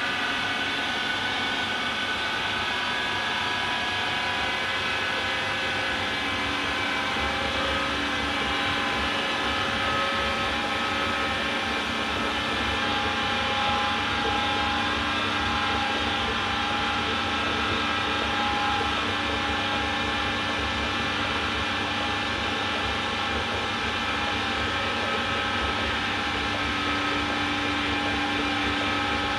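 AEG Lavamat Turbo washer-dryer running mid-programme: a steady machine noise with several held, even tones that keeps a constant level throughout.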